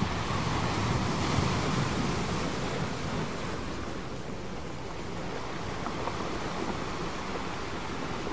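Ocean surf recording: waves washing in a steady rushing hiss that swells about a second in and eases off around the middle.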